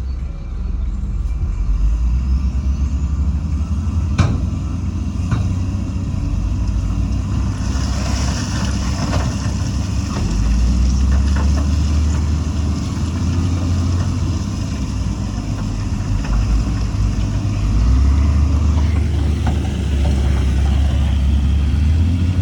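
Heavy diesel earthmoving machinery running: a deep, steady engine rumble that swells louder under load partway through and again near the end, with a sharp clack about four seconds in.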